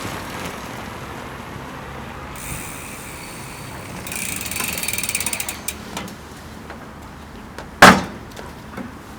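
A small mechanism giving off rapid ratchet-like clicks for about a second and a half, then a single loud sharp knock near the end.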